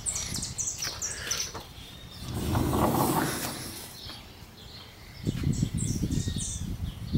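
Small birds chirping in quick runs of short high notes, twice, with a brief rushing noise that swells and fades in the middle and low bumping near the end.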